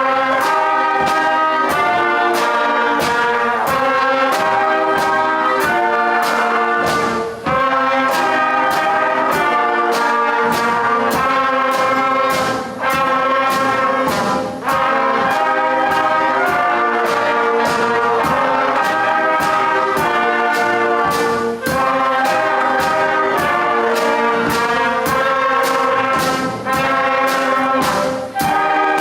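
Student concert band playing, brass leading over a steady percussion beat.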